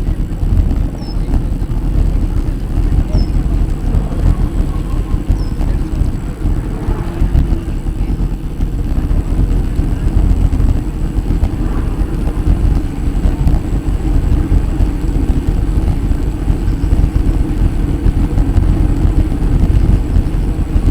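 Wind buffeting a microphone on a moving bicycle: a steady, loud low rumble with an uneven level. Four short, faint high chirps come in the first few seconds.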